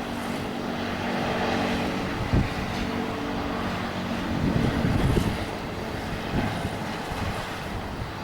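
Airbus A350 jet engines, Rolls-Royce Trent XWBs, landing: a steady engine hum with a few held tones that fade out midway, over a low rumble that swells about halfway through.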